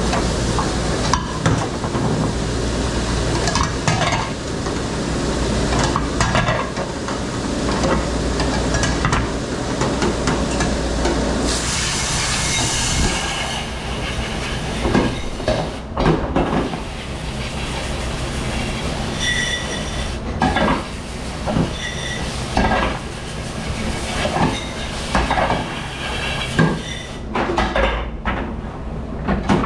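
Commercial dish room at work: a steady machine rumble under water spraying and dishes and trays clattering. A hard burst of spray comes about twelve seconds in, and later plates clink with short ringing tones.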